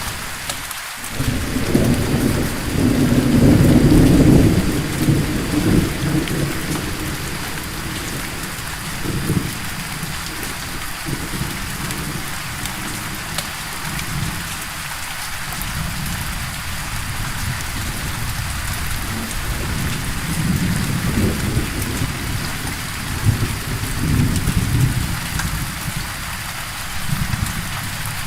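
Steady rain with rolling thunder. A long, low rumble builds to its loudest about four seconds in, and further rumbles come and go around twenty to twenty-five seconds in.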